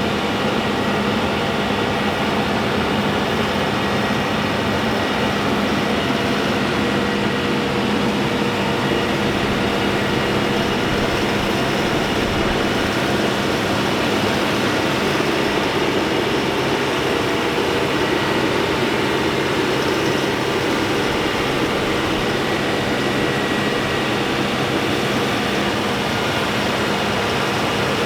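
Large TYM farm tractor's diesel engine running steadily as it drives, heard from inside the cab with the air conditioning blowing.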